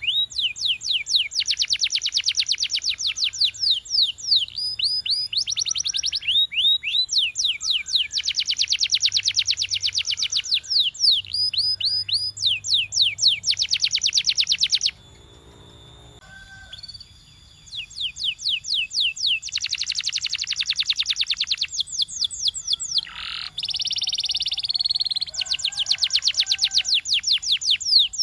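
Canary singing in long rapid trills of repeated, falling whistled notes, one run following another, with a pause of about two seconds midway.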